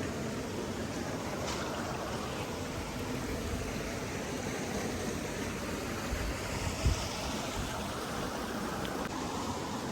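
Steady rushing of flowing water, like a stream, with a brief low thump about seven seconds in.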